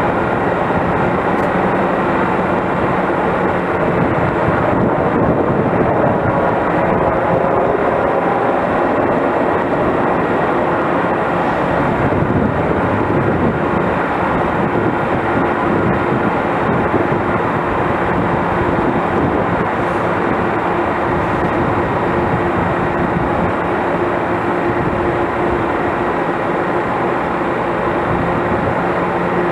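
A train running by, a loud steady mix of machinery noise with a constant hum.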